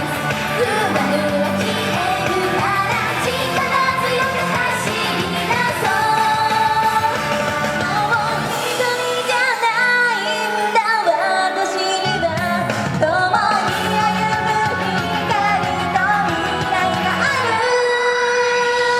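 Japanese idol pop song performed live, with sung vocals over a loud backing track; the bass drops out for a few seconds about halfway through, then comes back in.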